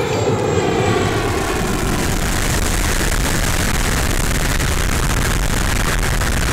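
Twin KingTech K-235 turbine engines of a large RC model jet. Their whine, falling in pitch, gives way over the first two seconds to a loud, steady rushing noise with no clear pitch.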